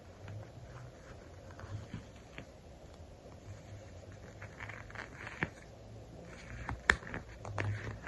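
Hands working with sticker sheets: crinkly peeling and rustling of paper and plastic, broken by a few sharp taps and clicks, the sharpest about seven seconds in.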